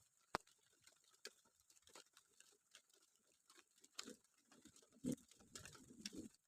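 Faint, sparse raindrops dripping: irregular single taps and ticks, with a few soft low thumps about four to six seconds in.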